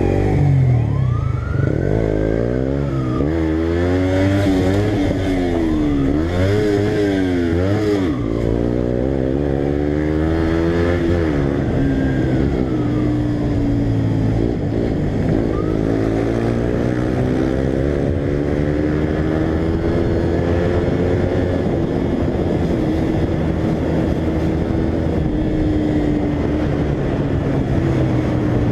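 Motorcycle engine at speed, its pitch rising and falling several times as it revs and shifts through the first dozen seconds, then holding steadier at high speed, over a steady low hum.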